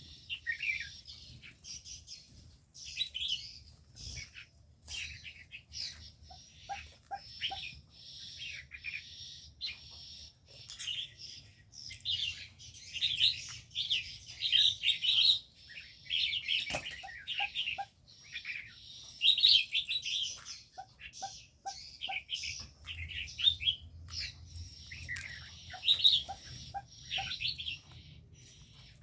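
Many small cage birds chirping and calling over one another in an aviary, busy and continuous, with short groups of three lower notes repeating every few seconds.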